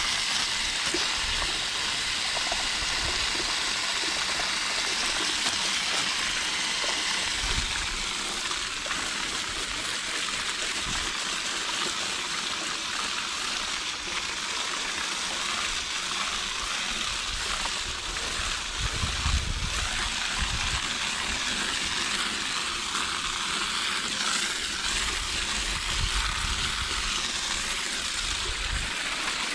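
Garden hose spray nozzle washing water steadily through the fins of an air-conditioner condenser coil, a continuous hiss of spraying and splashing water.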